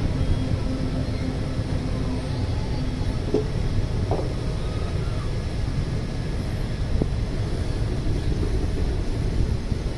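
Passenger express train running along the track: a steady low rumble from the moving coach, with a few light knocks.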